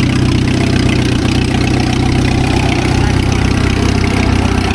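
Allis-Chalmers tractor engine running steadily.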